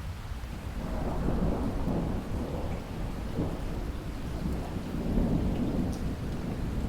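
Steady rain with a long, rolling rumble of thunder that swells about a second in and keeps rumbling unevenly, rising again near the end.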